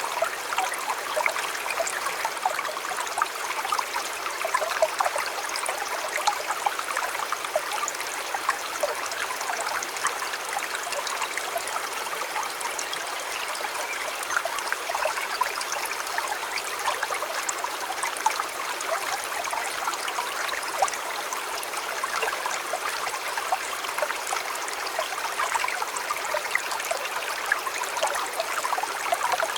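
River water flowing steadily in a continuous babble, full of small splashes and trickles.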